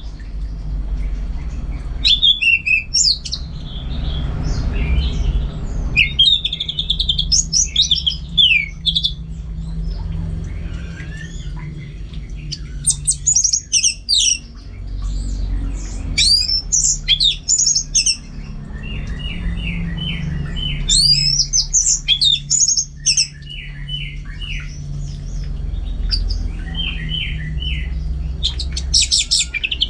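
Orange-headed thrush singing a loud, varied song: quick phrases of rising and falling high notes, with several runs of rapid repeated notes, over a steady low hum.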